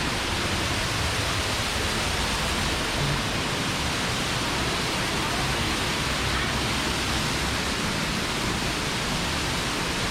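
Steady, even rushing of running water, unbroken and unchanging in level.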